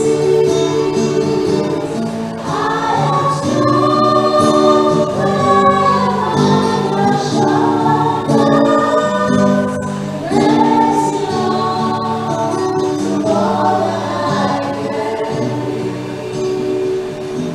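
Church choir singing a hymn, several voices holding sustained notes together in harmony.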